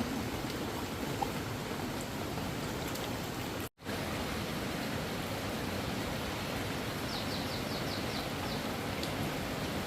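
Steady rush of flowing water, most likely running floodwater or a swollen stream. The sound cuts out for an instant a little under four seconds in. Near the end there is a quick run of about seven short, high chirps.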